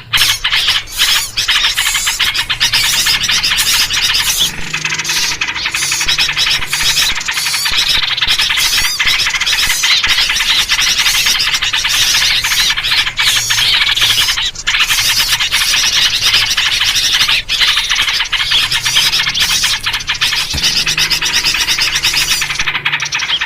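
Dense, unbroken chorus of agitated small-bird chatter and chirps, led by yellow-vented bulbul (trucuk) calls: the excited, noisy calling used as a lure to draw wild birds in.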